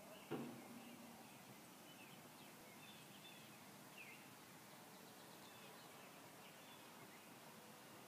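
Faint birds chirping in scattered short calls over a quiet outdoor background, with a single soft thump about a third of a second in.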